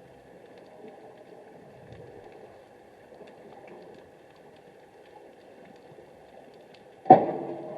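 Muffled underwater sound with a faint steady hum, then one sudden loud knock about seven seconds in, dying away over most of a second.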